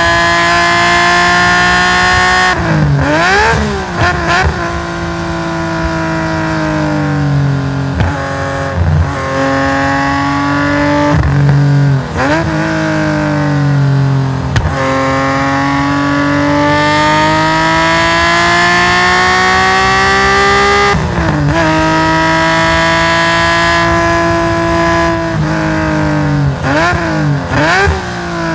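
Race-tuned Nissan S20 twin-cam straight-six of a Hakosuka Skyline GT-R at full throttle on track, heard on board: pulls climbing in pitch, broken by sudden drops at upshifts and by clusters of quick throttle blips on downshifts through the sequential gearbox. The longest pull runs through the middle, and downshift blips come about three seconds in, near twenty-one seconds and again near the end.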